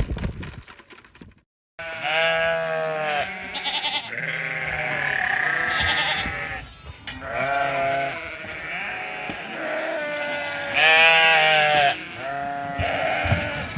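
Goats bleating, many calls overlapping, starting about two seconds in after a brief dropout, with a louder cluster of calls near the end.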